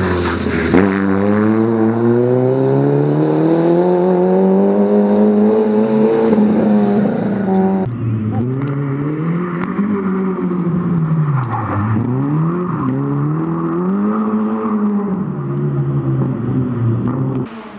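Peugeot 106 rally car's four-cylinder engine driven hard: a long climb in revs as it accelerates for about seven seconds, then repeated rises and drops in revs as the driver lifts off and accelerates again.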